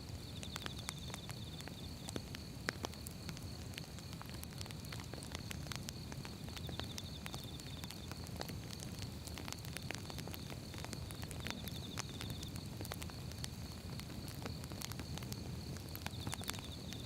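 Wood fire burning, with irregular crackles and pops over a low rumble of the flames. A thin steady high tone runs underneath, and a short high trill recurs about every five seconds.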